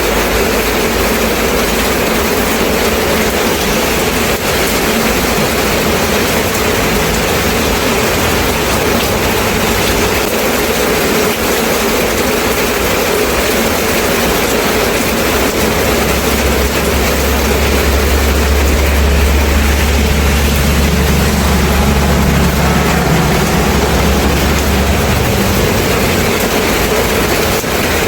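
Steady rain falling, a dense even hiss. About halfway through a low rumble swells in under it and fades out again a few seconds before the end.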